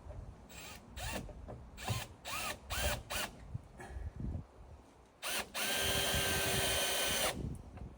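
Power drill driving a deck screw into a wooden beam: several short trigger pulls, each with a whine that rises and falls as the motor spins up and slows, then one steady run of under two seconds near the end as the screw is driven in.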